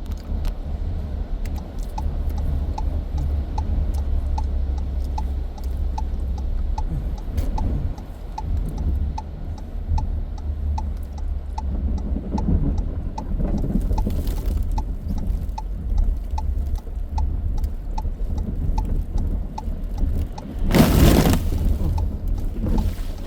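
Road and engine noise inside a moving car on a snowy road: a steady low rumble with a faint regular ticking almost twice a second. Near the end comes a loud, brief rushing whoosh.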